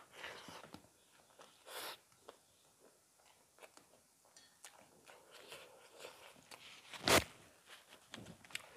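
Close-up eating sounds of spicy chicken curry and rice eaten by hand: chewing, biting and small mouth noises, with fingers working rice on steel plates. One short, sharp noisy burst about seven seconds in is the loudest sound.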